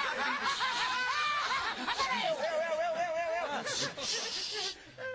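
High-pitched cackling laughter in quick repeated bursts, then a wavering held note and a breathy stretch near the end.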